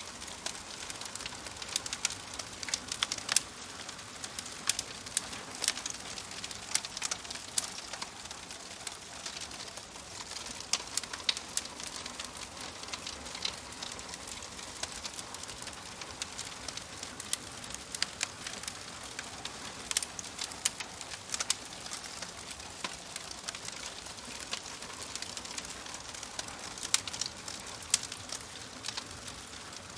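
Wood fire crackling: irregular sharp pops and snaps, several a second at times, over a soft steady hiss.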